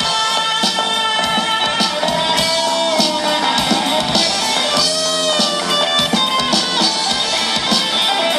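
Live rock band playing an instrumental break of the song, with a melody carried by guitar over a steady drum-kit beat and no singing.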